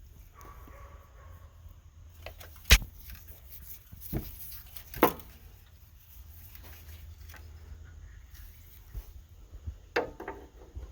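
A few sharp knocks and clicks from handling things, the loudest about three seconds in and a small cluster near the end, over a steady low hum.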